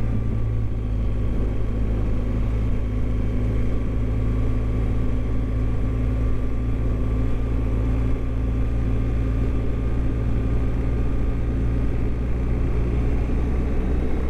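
BMW GS motorcycle under way at a steady speed: an even engine drone with a steady note, mixed with wind rush on the microphone.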